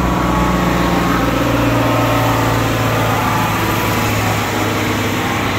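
2000 Jeep Wrangler TJ's 4.0-litre inline-six idling steadily just after a dyno pull.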